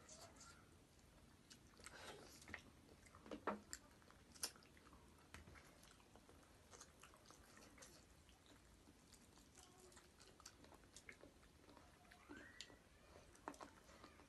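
Faint sounds of people eating: quiet chewing with scattered small clicks and taps, a couple of them louder a few seconds in.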